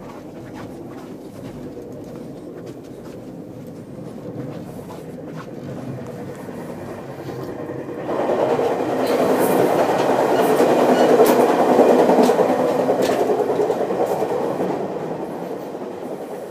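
Passenger train running on the rails, heard from inside a car: a steady rumble with scattered clicks. It grows much louder about halfway through, stays loud for several seconds, then eases off.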